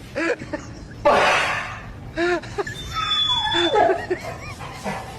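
People laughing and snickering in short bursts, with a loud hissing burst of noise about a second in.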